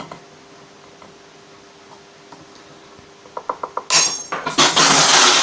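Steel fret wire being cut to length with clippers and handled: a quick run of small metallic clicks about three seconds in, then two bright bursts of metal clinking and rattling near the end.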